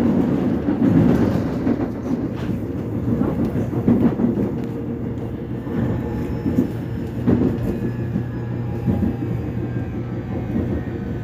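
Inside a Seoul Metropolitan Subway Line 1 commuter train on the move: a steady rumble of wheels on the track with a low hum, and scattered short knocks and clacks from the car.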